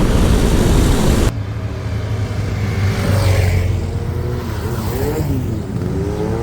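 Wind rushing over the microphone at riding speed, cut off abruptly about a second in; then motor vehicle engines running, their pitch rising and falling as they rev and pass.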